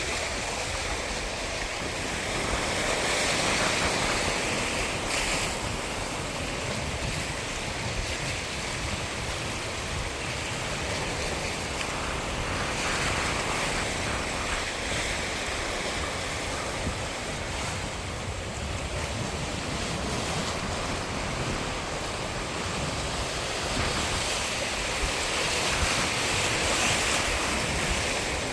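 Sea surf, a steady wash of waves, with wind rumbling on the microphone. The wash swells louder a few seconds in and again near the end.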